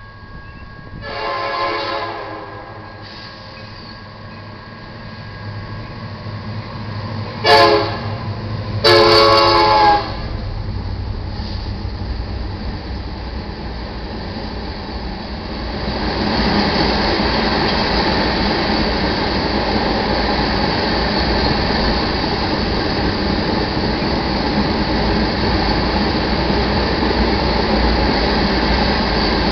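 Lead BNSF EMD SD70MAC locomotive of an iron ore train sounding its horn in three blasts, long, short, then long. The train then passes, a loud steady rumble with rail and wheel noise that builds and holds through the rest.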